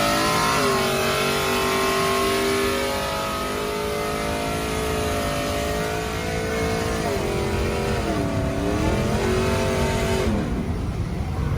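A vehicle engine held at high revs, dipping and coming back up about eight seconds in, then winding down near the end, under a steady hiss that fades as the revs fall.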